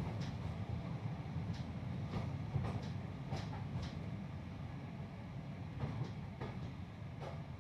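Passenger train carriage running along the track: a steady low rumble with irregular clicks and knocks, as the wheels pass over rail joints and the carriage rattles. It grows slightly quieter near the end.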